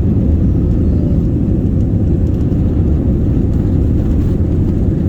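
Steady low rumble of a jet airliner's engines and airflow heard inside the passenger cabin, with a faint steady hum above it.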